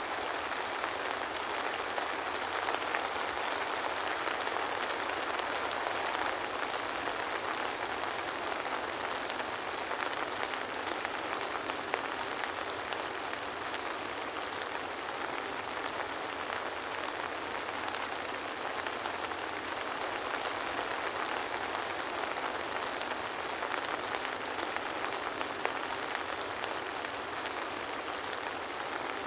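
Steady soft rain, an even hiss with many small drops pattering, no thunder.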